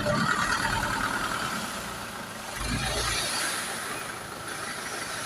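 Old dump truck's engine running, with a low rumble that swells briefly about halfway through.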